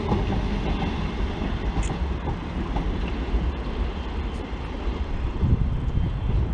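Engineering train's wagons rolling away down the line: a low, steady rumble of wheels on rail.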